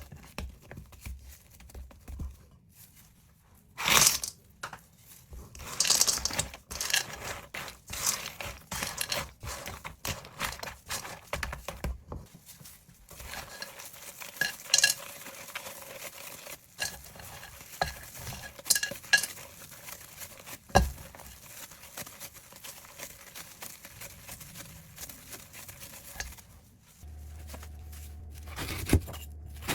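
Metal utensils clinking, knocking and scraping against a pot during stir-frying, with many sharp strikes throughout. A steady hiss runs under it from about a third of the way in, and a low hum starts near the end.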